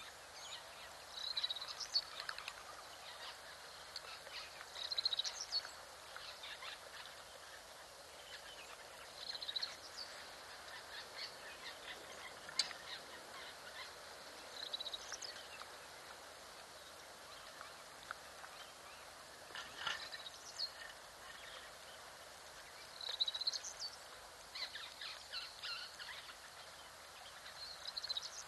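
Wild birds calling in short high bursts every few seconds over a steady background hiss.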